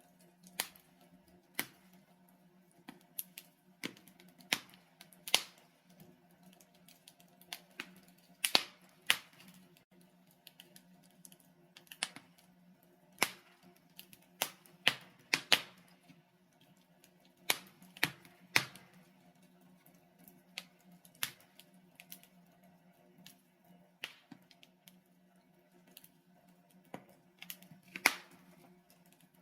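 Wood fire in a fireplace crackling: irregular sharp pops and snaps from the burning logs, some in quick clusters, over a faint steady low hum.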